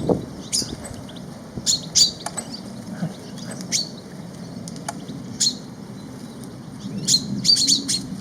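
Small garden birds calling at a feeder: short, high chirps and tweets coming in scattered clusters over a steady low hum, with a dull knock at the very start.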